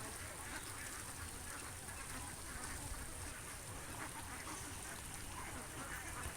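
Ducks quacking repeatedly in short, scattered calls, over a steady high hiss.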